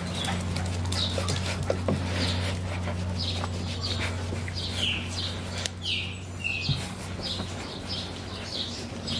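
Small birds chirping, a run of short falling chirps that come thicker about a third of the way in, over a steady low hum.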